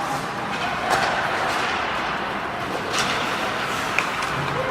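Ice hockey game sounds: a steady wash of rink noise, skates on ice, with a few sharp clacks of stick or puck about one, three and four seconds in.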